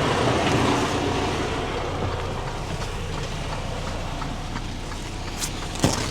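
Steady rumble and hum of an idling truck engine, with a single sharp knock near the end.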